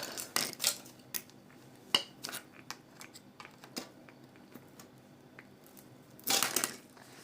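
Small clicks and taps of phone parts and tools being handled during a phone teardown, with a short scrape a little over six seconds in.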